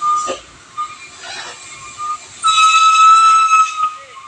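A high, steady whistle tone about a second long, about two and a half seconds in, after a few short high blips at the same pitch.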